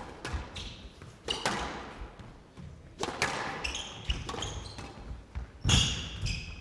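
Squash rally: the ball cracks off rackets and the court walls about once a second, each hit echoing in the glass court, with short high sneaker squeaks on the court floor between hits. The loudest hit comes near the end.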